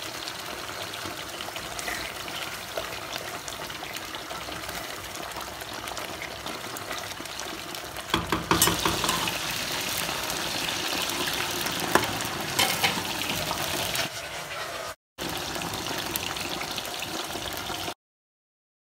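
A pot of stew simmering and bubbling. About eight seconds in it gives way to yam chips deep-frying in hot oil, louder, with a steady sizzle and many sharp crackles. After a short break the stew is heard bubbling again, and the sound cuts off suddenly just before the end.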